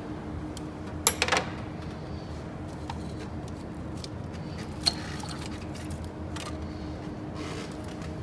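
Metal hand tools clinking against metal: a sharp clank with a short ring about a second in, a smaller one near five seconds, and light scattered clicks over a steady low hum.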